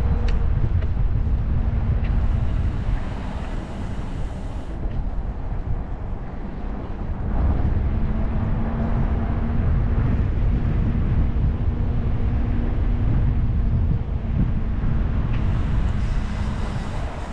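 Wind buffeting the microphone of a moving e-bike, a dense low rumble, with a faint steady low hum running through most of it.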